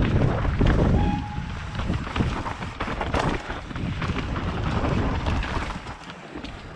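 Mountain bike rattling and clattering over a rough trail in a run of short knocks and clicks, with wind buffeting the microphone. The noise eases about six seconds in.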